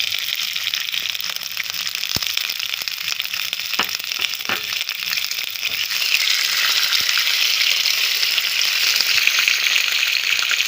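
Boiled lasoda fruit frying with cumin, mustard seeds and asafoetida in a little hot oil in a kadhai: a steady sizzle that grows louder about six seconds in, with a few sharp clicks early on.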